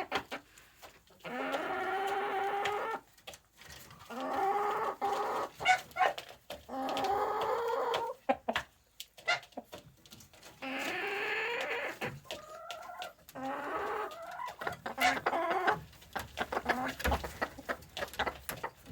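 Chickens calling, with four long drawn-out calls of about a second and a half each and shorter clucks between them.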